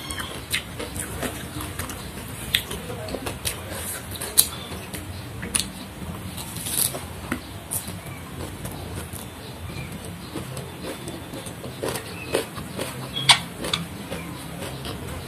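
Close-miked eating: chewing and crunching of fresh raw vegetables with rice and sambal, with irregular sharp crunches and wet mouth clicks.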